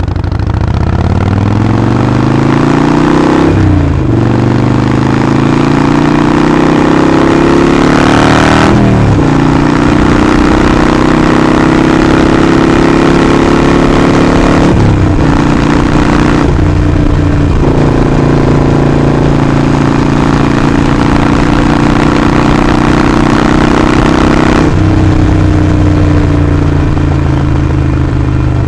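Harley-Davidson Sportster 48's air-cooled V-twin engine and exhaust under way, accelerating through the gears with the revs climbing and dropping at two upshifts. It then settles into steady cruising revs, with a couple of brief throttle changes, and eases off near the end.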